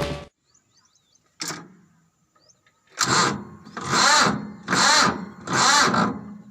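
Swaraj 744 FE tractor's electric starter motor cranking the engine slowly in four laboured surges about a second apart, its whine wavering with each turn: slow cranking on a low battery in the cold.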